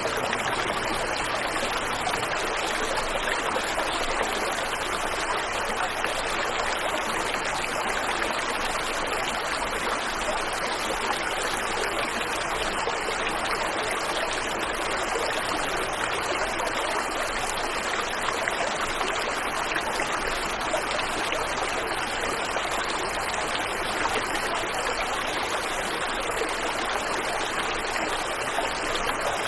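Waterfall and river water rushing and splashing in a steady, unbroken flow.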